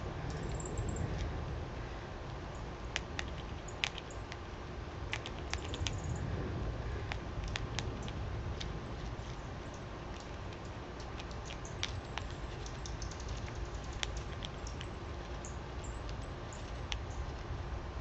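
Irregular small clicks and taps of animals feeding on seed, at times in quick runs, with a few brief high chirps. A steady low rumble runs underneath.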